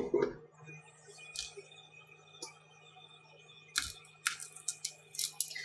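Sharp clicks and scrapes of a tool prying the digitizer glass off the tablet's adhesive, a handful of them spread over the last few seconds, after a knock at the start. A faint steady hum runs underneath.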